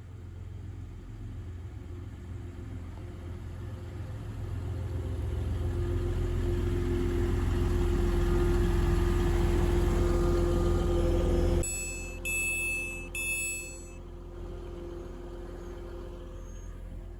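Diesel passenger train drawing into the platform, its low engine rumble and a steady hum growing louder for about ten seconds before dropping suddenly. Two short beeps follow about a second apart, then a quieter steady rumble.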